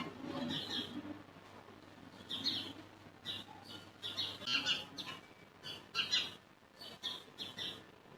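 Small birds chirping in short, irregular bursts, several a second.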